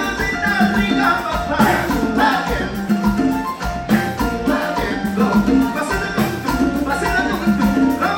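Live tropical dance orchestra playing an instrumental passage with a steady Latin rhythm.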